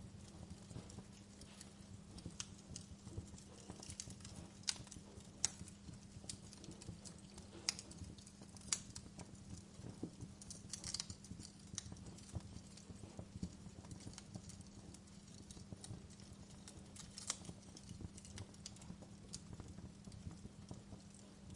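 Wood fire burning, with irregular crackles and sharp pops over a low steady rumble.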